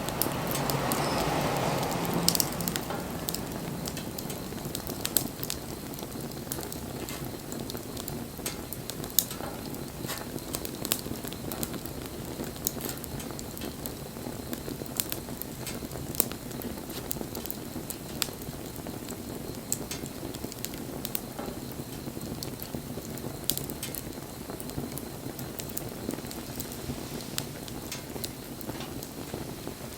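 Wood campfire burning: a steady hiss and rustle of flames with frequent sharp crackles and pops from the burning wood. A louder rush of flame in the first couple of seconds settles back to the steady burn.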